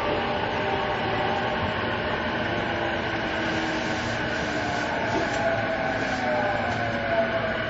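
E233 series 2000 commuter train running in a subway tunnel, heard inside the car: a steady rumble of wheels and running gear, with inverter and traction-motor whine whose tones slide lower in the second half.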